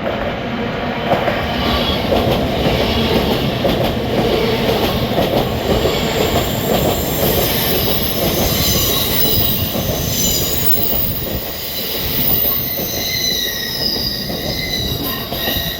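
A train running on the rails with a steady rumble, and a high, wavering wheel squeal that comes in about halfway through and grows stronger.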